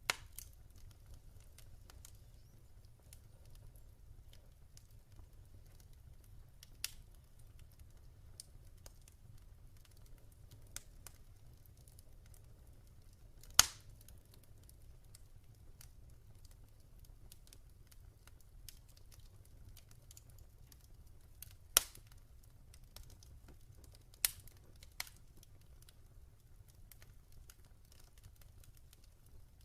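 Wood fire in a fireplace crackling softly over a low steady rumble, with scattered sharp pops. The loudest pop comes about halfway through, and two more come about three-quarters of the way through.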